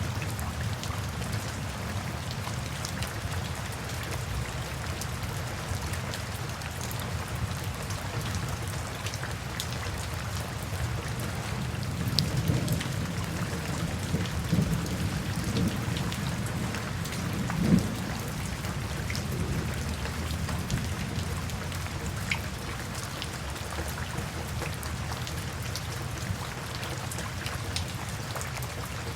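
Steady rainfall with scattered individual drops ticking. A low thunder rumble swells about halfway through and peaks briefly before fading back under the rain.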